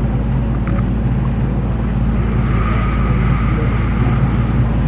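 Canal tour boat's motor running steadily, a constant low hum heard from aboard as the boat moves along the canal.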